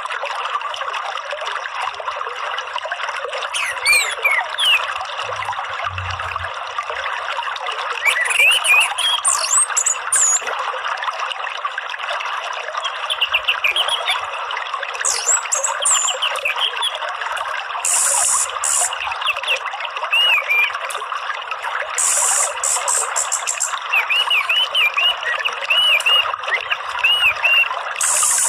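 Steady trickle of running water, with small birds chirping and whistling over it and a few short, high buzzy calls.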